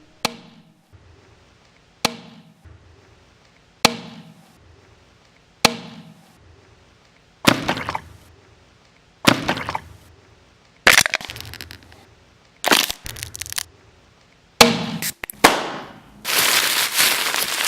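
Sharp cracks about every two seconds, each ringing off. From about halfway they become longer, louder cracking and breaking noises that come faster and run together near the end.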